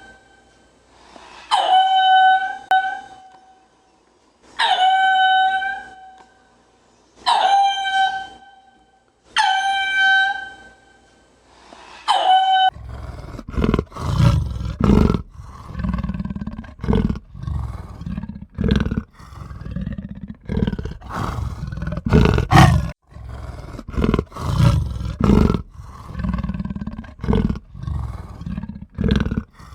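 An animal calling repeatedly: clear, high-pitched calls about a second and a half long, one every two and a half seconds or so. About thirteen seconds in this gives way to a loud, rough, pulsing animal roar with a deep low end that goes on in irregular bursts.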